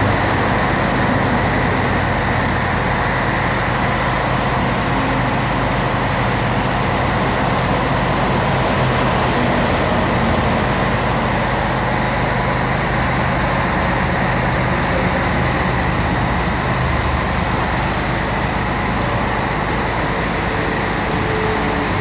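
Scania 112H truck's 11-litre straight-six diesel engine running steadily, a constant low drone under a dense rushing noise, with no revving or change in speed.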